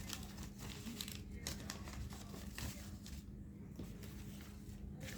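Colour paper being handled and folded, crinkling and rustling in irregular bursts, with a brief lull a little past three seconds in. A steady low hum sits underneath.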